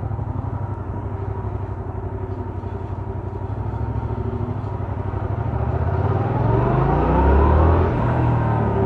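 Yamaha MT-07's 689 cc parallel-twin engine with stock exhaust, running steadily at first. About five seconds in it accelerates, its pitch rising and getting louder, then drops back near the end, as at a gear change.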